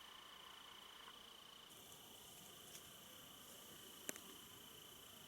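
Faint, steady high-pitched trill of insects, with a single faint click about four seconds in.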